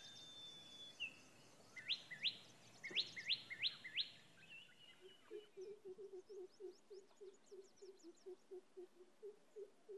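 Birds calling faintly: a few quick, sharply rising chirps, then a low call repeated evenly about three times a second, with faint high twitters over it.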